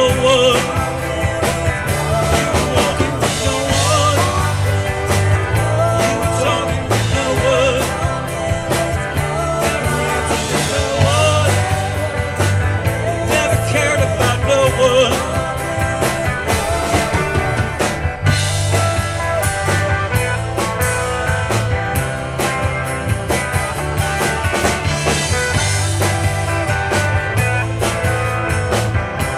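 Live rock band playing a song: electric guitars, bass guitar and drum kit with keyboards, a wavering lead melody over a steady pulsing bass line.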